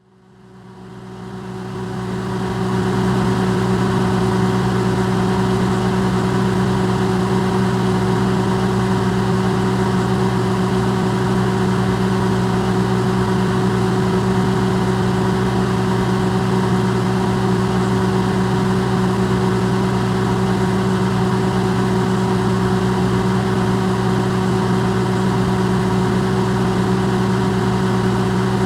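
Electrolux microwave oven running, recorded up close and amplified: a steady electrical hum with several constant low tones over an even fan-like whir. It fades in over the first few seconds, then holds unchanged.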